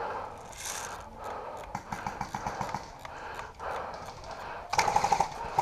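Airsoft gun firing a rapid full-auto burst that starts near the end, preceded by scattered faint clicks and pops from play across the field.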